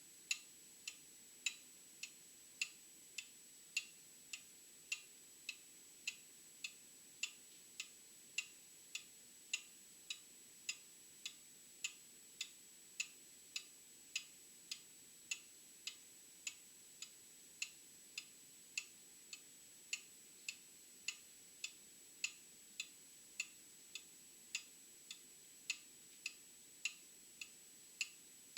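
Old mechanical clock ticking steadily, about two ticks a second, the strokes alternating in strength like a tick-tock.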